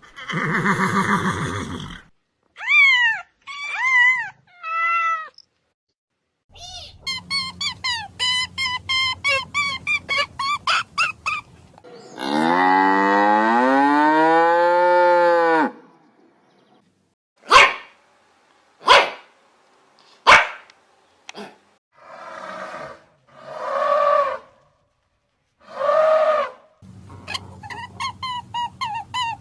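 A series of different animal calls, one after another with short gaps. Among them are three short falling calls, a run of fast repeated notes, a long drawn-out call lasting a few seconds, and three sharp short calls.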